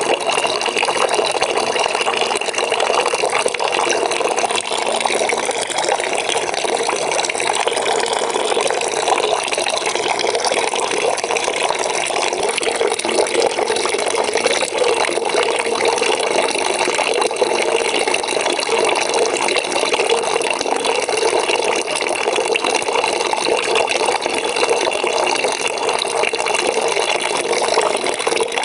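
Water running steadily into a bucket from a tap, a continuous splashing and gurgling stream with no change in pitch.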